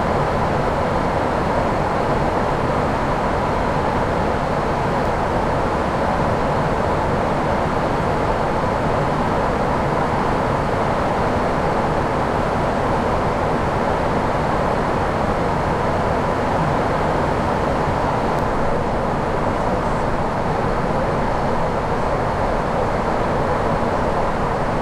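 Steady rushing noise on the flight deck of an Airbus A340-600 in flight on approach: airflow around the cockpit, even and unchanging.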